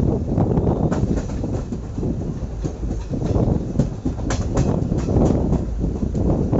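Passenger train coach running on the line, heard from on board: a steady heavy rumble with a string of sharp clicks and knocks as the wheels run over rail joints, thickest about four to five seconds in.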